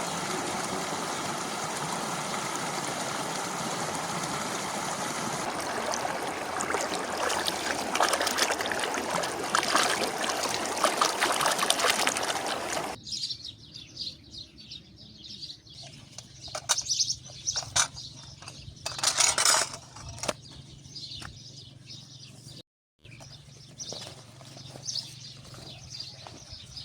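Steady rushing of a stream with clicks building in it, cut off sharply about thirteen seconds in. Birds chirping follow, with scattered clicks and knocks.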